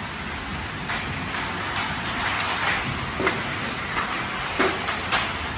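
Hail falling with heavy rain: a dense steady hiss, with irregular sharp clicks and taps as hailstones strike hard surfaces.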